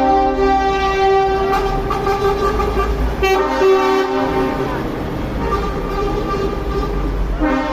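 Truck air horns sounding in long blasts one after another, each a held chord of several notes, over a steady low rumble.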